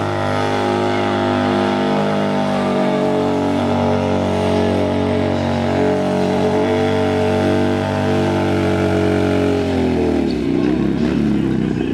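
Harley-Davidson Sportster's V-twin engine held at high, steady revs during a standing burnout, the rear tire spinning on the concrete. About ten seconds in the revs drop away.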